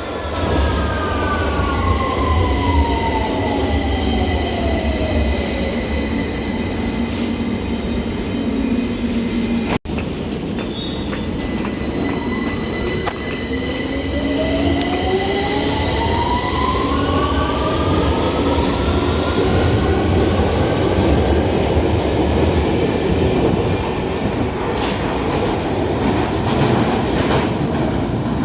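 London Underground Victoria line train braking into the platform, its motor whine falling in pitch, then after a sudden break a train pulling away with the whine rising, over steady rumble and wheel noise.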